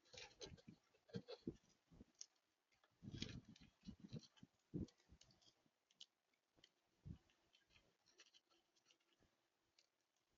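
Faint, irregular clicks and taps of small animals feeding at a bird feeder close to the camera's microphone, busiest a few seconds in.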